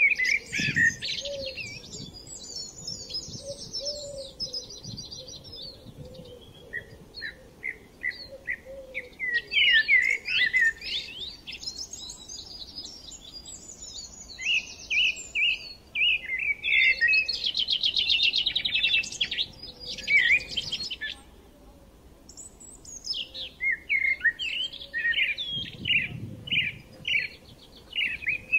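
Small birds chirping and trilling, many quick calls overlapping, with a short lull about two-thirds of the way through.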